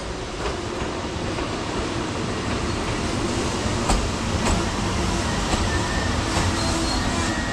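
Passenger train hauled by a BDZ class 44 electric locomotive passing on the adjacent track: a steady rumble with a series of sharp wheel clicks over rail joints, growing a little louder as it comes alongside.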